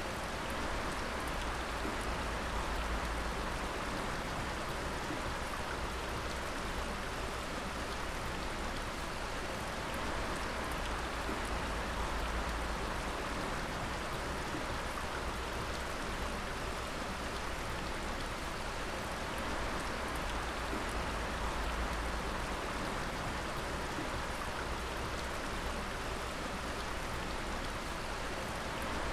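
Water dripping and splashing steadily onto wet rock, a dense patter of drops over a continuous splashing wash.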